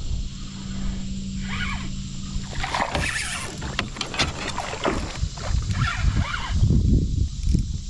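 Water sloshing and knocking around a fishing kayak as it is handled, with a steady low hum that stops partway through and returns near the end, and heavy thumps against the hull near the end.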